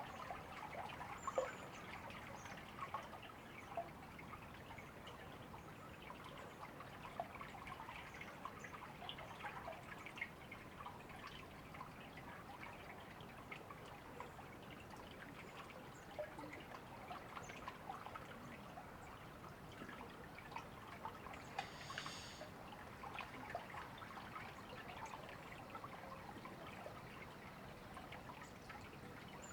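Shallow river water babbling and trickling steadily over stones, with a brief high bird call about two-thirds of the way through.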